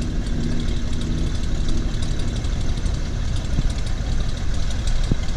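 An engine running steadily with a dense low rumble.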